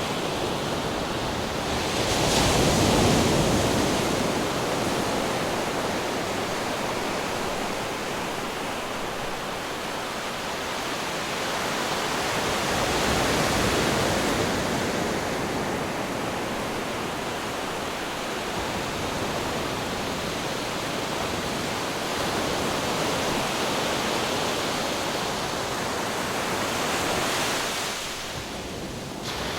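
Ocean waves breaking on rocks: a continuous rush of surf, swelling louder with a breaker about two seconds in and again around thirteen seconds, easing off briefly near the end.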